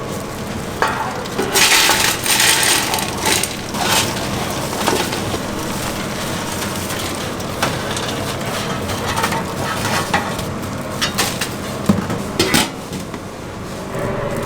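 Kitchen clatter: metal utensils, pans and dishes clinking and knocking, with a loud rush of noise about two seconds in.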